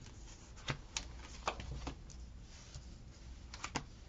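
Paper being handled at a desk: sticker sheets and planner pages rustled and tapped, with a few short, sharp crinkles and clicks scattered through.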